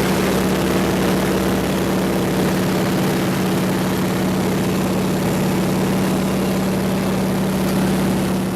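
Propeller aircraft engine running at a steady speed, an even drone with no rise or fall in pitch.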